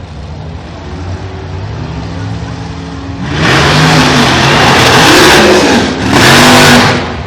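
Race truck's engine running low, then going to full throttle about three seconds in and running very loud with rising pitch. There is a brief dip near the six-second mark, then it comes back to full throttle before dropping off near the end.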